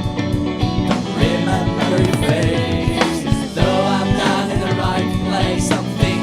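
Rock band playing a song with sung vocals over electric guitar, bass and drums.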